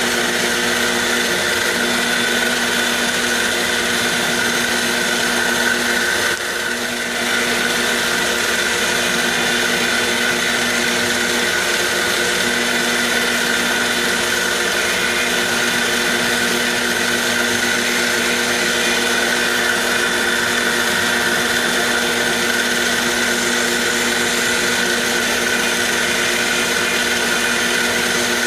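CNC machine spindle running and cutting a part in a roughing pass: a steady motor whine of several fixed tones over cutting hiss, with a brief dip about six and a half seconds in.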